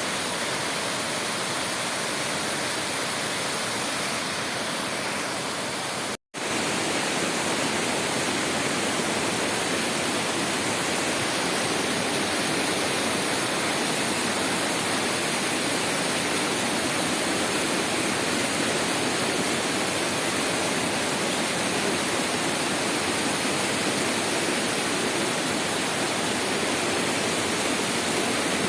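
Waterfall rushing: a loud, steady roar of falling water. The sound cuts out for a split second about six seconds in.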